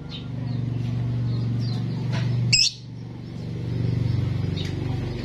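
Starling calling: one sharp, loud high whistle about two and a half seconds in and a few softer short chirps, over a steady low hum.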